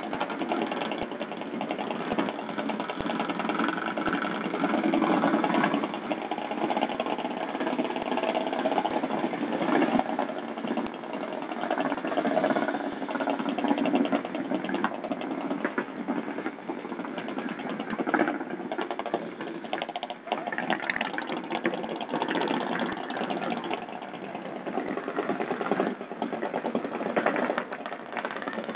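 Vintage Čechie-Böhmerland motorcycle engine idling, its fast even beat running steadily with small rises and falls in level.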